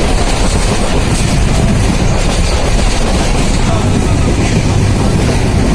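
Nilsagar Express passenger train running, a steady, loud rumble of the wheels on the rails.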